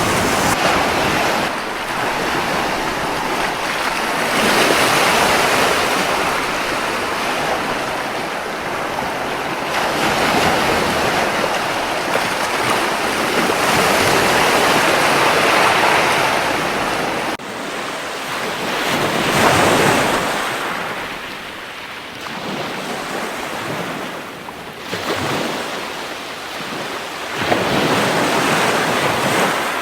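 Ocean waves breaking and washing up a beach, the surf swelling and falling back in surges every few seconds.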